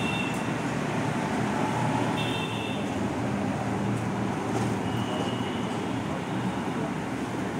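Hero Honda Passion motorcycle's single-cylinder four-stroke engine running steadily.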